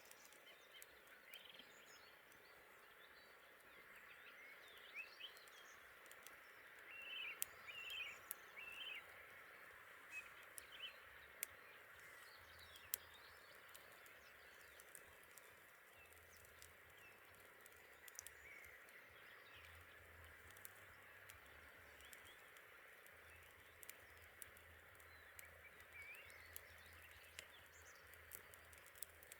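Faint outdoor ambience: a steady low hiss with scattered sharp crackles and pops, typical of a wood bonfire, and birds chirping now and then, most busily about a quarter of the way in.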